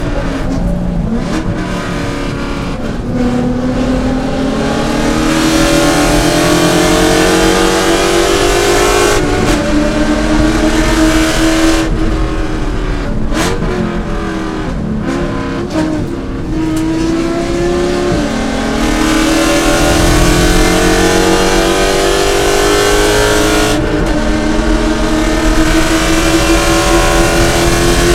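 C5 Corvette's V8 at racing speed, its pitch repeatedly climbing as it accelerates and dropping back at shifts and lifts, with short easings off around the middle and near the end.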